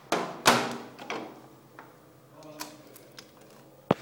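A few sharp knocks and clicks from handling a phone charger plug and cable as it goes into a mains wall socket, the loudest about half a second in, with another sharp click near the end.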